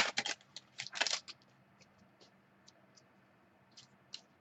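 Trading cards and their pack wrapper being handled: a cluster of short rustles and clicks in the first second and a half, then a few faint ticks.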